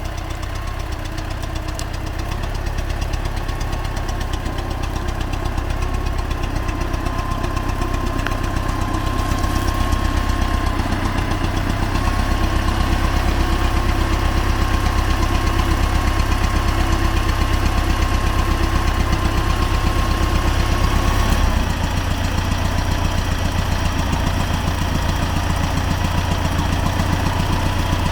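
T-40AM tractor's air-cooled four-cylinder diesel engine running under load as the tractor drives across a ditch. It grows gradually louder and then drops suddenly about twenty-one seconds in, settling to a steadier note.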